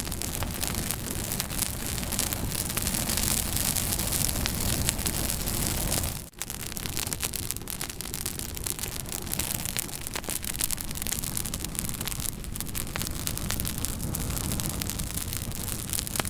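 Wood fire burning in a fireplace: a steady hiss and rush of flames with many small crackles and pops. The sound drops out for a split second about six seconds in.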